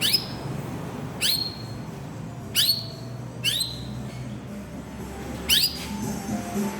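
Green leafbird (cucak ijo) calling: five short whistles, each sweeping sharply upward and holding briefly at a high note, spaced a second or two apart, over a faint low hum.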